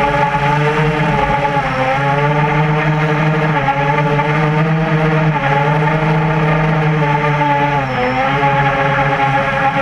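Whine of a QAV400 quadcopter's four Tiger Motor MT-2212 1100kv brushless motors spinning 8x5 propellers in fast flight. The pitch drops briefly about four times as the throttle is eased off and then picks up again.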